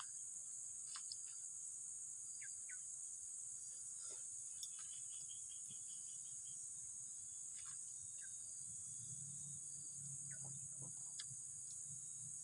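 Insects trilling steadily at a high pitch, with scattered short bird chirps and, about two-thirds of the way in, a low hum that comes in and holds.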